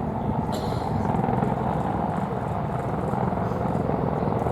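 Boeing AH-64E Apache attack helicopters in flight: a steady, continuous rotor and turbine-engine noise with a fast, even pulsing.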